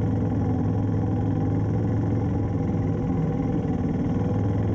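1994 Yamaha Timberwolf 4x4 ATV engine running at a steady pace while the quad is ridden, with an even, unchanging hum.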